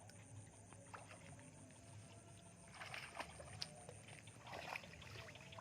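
Faint water splashing and sloshing with small scattered knocks, a little louder around the middle and near the end, over a steady faint high-pitched whine.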